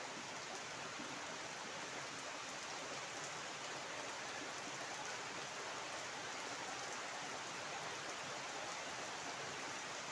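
Heavy rain falling steadily onto a flooded yard's standing water and onto trees: an even, unbroken hiss.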